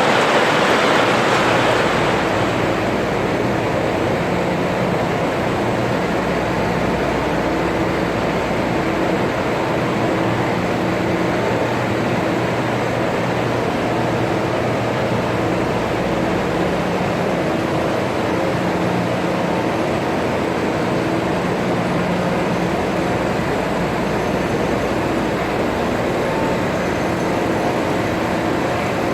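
Steady machinery noise: a loud even hiss with a low hum, a little brighter for the first two seconds.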